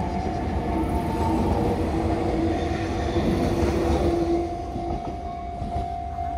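Train running along the track: a continuous low rumble with a steady whine.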